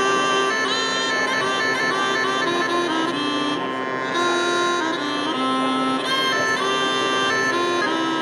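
Sampled sipsi, a reed wind instrument, played from a digital ocarina app on an iPhone through a ceramic amplifier housing's speaker: a reedy melody of changing notes over a steady held drone note.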